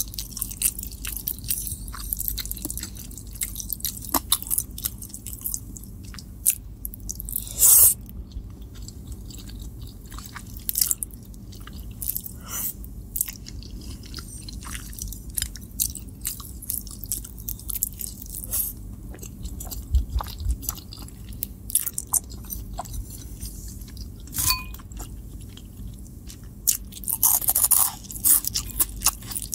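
Close-miked chewing of spaghetti carbonara, with a steady run of short wet mouth clicks and smacks and one much louder smack about eight seconds in. Near the end the chewing turns into a denser, louder crunching as a cheese-coated puffed corn snack is bitten.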